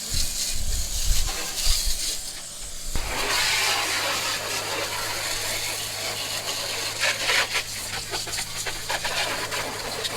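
Pressure washer starting up about three seconds in, then running steadily: a low motor-pump hum under the hiss of the water jet spraying salt off a vehicle's underside. Before it starts there are a few low knocks.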